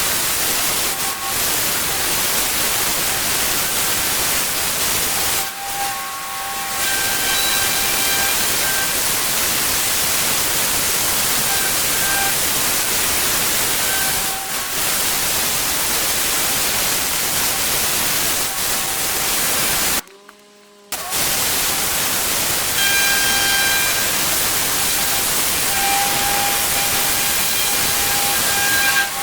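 A pressure washer's jet spraying water onto hard paving: a loud, steady hiss with a faint whine from the machine coming and going. The sound cuts out for about a second about twenty seconds in.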